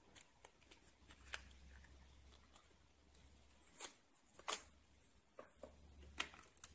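Hands handling small plastic packaging: scattered faint crinkles and clicks, with a few sharper crackles in the second half.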